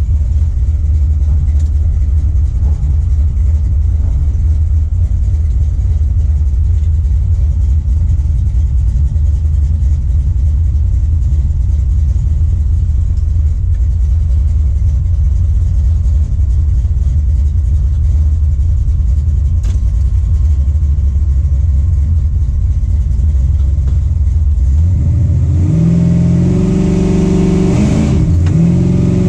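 Race truck's engine heard from inside the cab, running at a steady low idle rumble. Near the end it revs up, the pitch climbing in steps.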